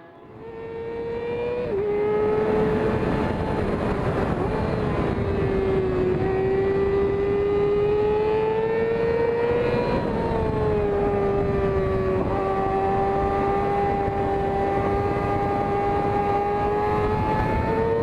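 Yamaha R6 inline-four sportbike engine running at high, fairly steady revs, a high-pitched howl. It builds up over the first couple of seconds, then holds its pitch with a few brief small dips.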